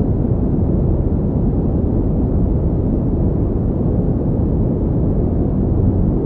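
Steady pink noise: an even, unbroken hiss weighted toward the low end, with no change in level or character.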